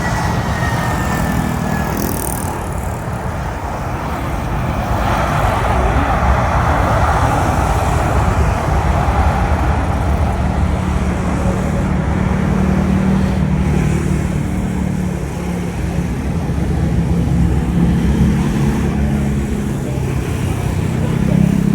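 Jet airliner landing past the spotting spot: a steady low engine rumble that swells a few times, mixed with road traffic.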